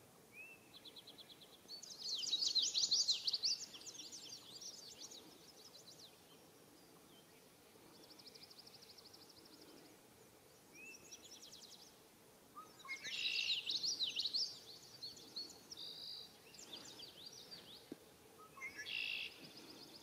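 Songbird song in several separate phrases of quick trills and jumbled runs of high notes, loudest about two seconds in and again around thirteen seconds in.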